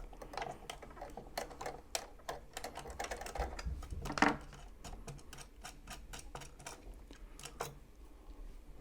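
Irregular small metallic clicks and taps of a screwdriver on the throat plate screws as the throat plate is taken off a Janome sewing machine.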